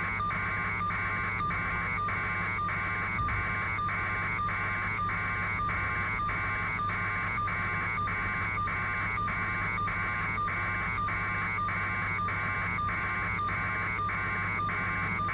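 Open telephone line carrying a rhythmic electronic buzz that pulses about twice a second, over a steady low hum.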